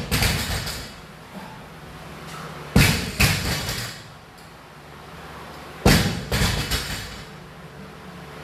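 A barbell loaded with plates is dropped to the floor roughly every three seconds. Each landing is a loud slam followed by a second impact as it bounces: one pair right at the start, one about three seconds in and one about six seconds in.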